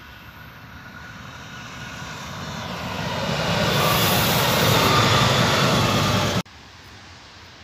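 Red regional multiple-unit passenger train approaching and passing close by: a rushing rumble and rail noise that grows steadily, is loudest about four to six seconds in, then cuts off abruptly at an edit, leaving only faint wind and field background.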